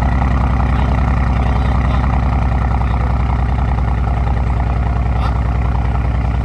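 2020 Aston Martin Vantage's twin-turbo V8 idling steadily after a cold start.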